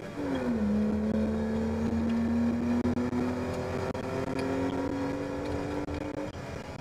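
BMW E30 325i's 2.5-litre straight-six engine, heard from inside the cabin. Its note drops in pitch with an upshift just after the start, then rises slowly and steadily as the car accelerates through the gear.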